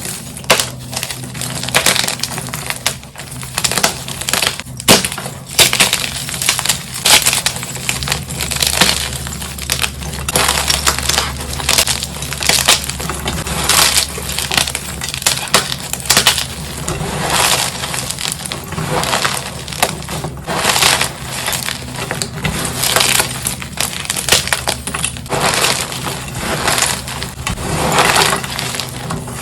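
Gym chalk being crushed: a continuous run of crisp, glassy crunches and crackles with no pauses.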